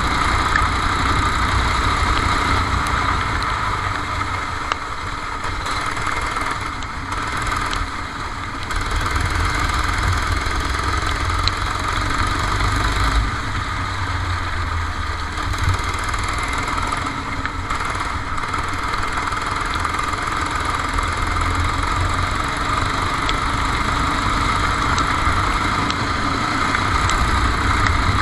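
Racing kart's engine running, heard onboard from the kart. Its level eases off about four seconds in and picks up again around nine seconds in.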